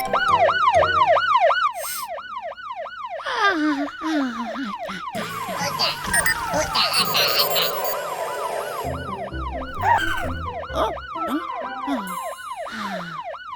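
Cartoon siren whooping in quick rising-and-falling cycles, about three or four a second, with a falling sound effect and light music in the middle.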